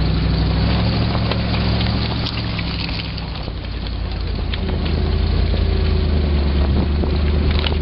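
An engine running steadily; it eases off about three seconds in, then picks up again.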